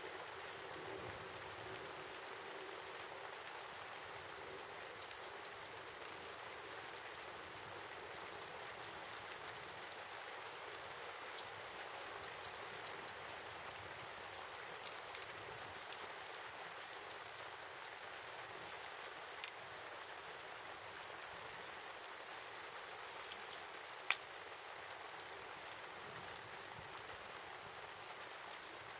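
Campfire burning: a steady hiss full of small crackles and pops, with one sharper pop near the end.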